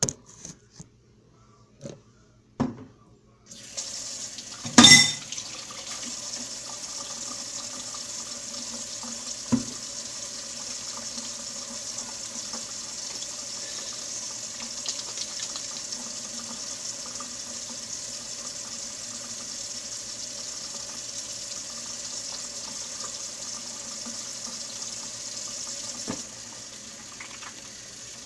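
Tap running steadily into a sink for washing hands, turned on a few seconds in and off near the end. A few light clicks come before it, and a loud knock just after it starts.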